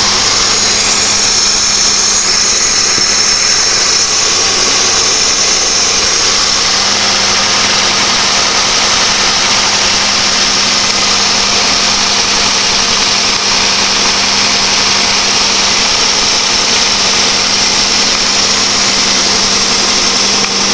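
The 3.4-litre 3400 V6 of a 2003 Chevrolet Monte Carlo LS idling steadily while still cold from a cold start, heard close to the engine. Its three-piece cold air intake makes a loud, steady hiss over the engine's low hum.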